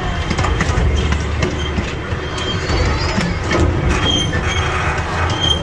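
Miniature train running along its track, heard from aboard: a steady low rumble of the wheels and running gear, with a few short, high wheel squeals about four seconds in and near the end.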